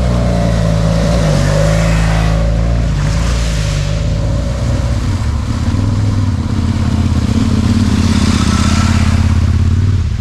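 Adventure motorcycle engine running under way, picked up onboard with wind noise; the revs climb through the second half and drop sharply near the end.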